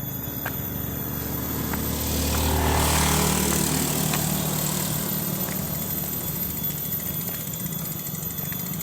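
A motor vehicle's engine runs steadily, and the sound swells to its loudest about three seconds in, as if passing close, then eases back.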